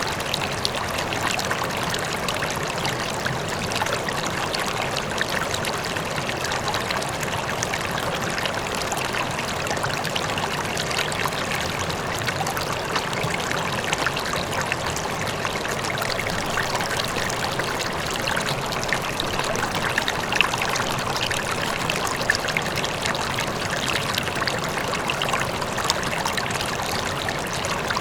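River water flowing steadily over rocks, a constant rushing and splashing with small bright splashes flickering through it, with the rush of a waterfall in the distance.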